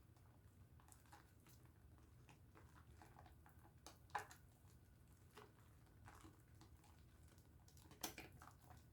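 Faint wet squishing and clicking of hands lathering a pink Dove soap bar, with two louder wet smacks: one about four seconds in and one near the end.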